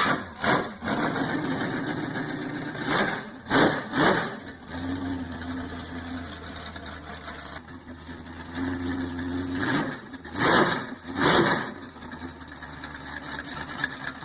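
A car engine running, with several short, sharp revs between stretches of steady idle.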